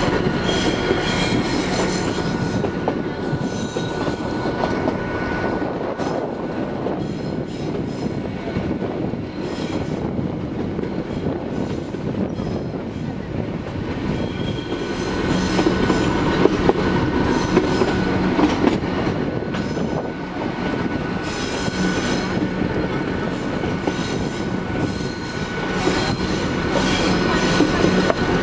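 Metre-gauge Nilgiri Mountain Railway train running through curves, heard from an open coach window. Wheels rumble steadily on the rails with repeated clacks, and a steady high-pitched squeal of wheels comes from the curving track.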